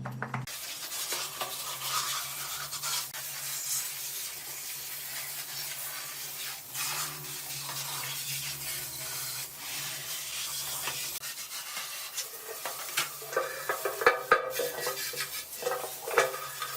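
Brush scrubbing against a motorcycle part in repeated short strokes, with a cluster of light knocks and clinks near the end.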